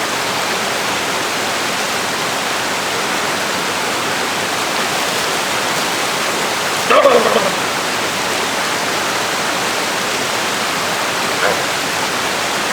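Waterfall: steady rushing noise of falling water. About seven seconds in, a brief vocal exclamation from a person.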